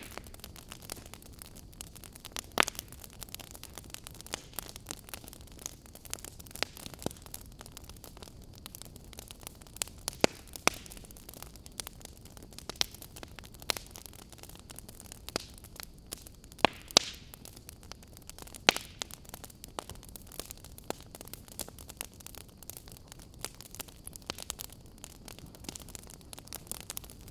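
Wood fire in a fireplace crackling, with irregular sharp pops over a steady low hiss.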